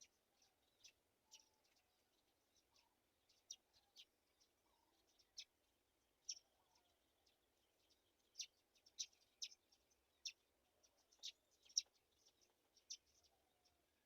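Short, sharp, high bird chirps at an uneven pace, coming thicker and louder in the second half, over faint lower calls repeating about once a second.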